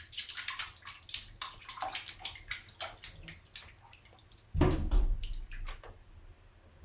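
Kitten pawing at water in a large tub, a run of small, irregular splashes and drips. About four and a half seconds in there is a louder, deeper thump.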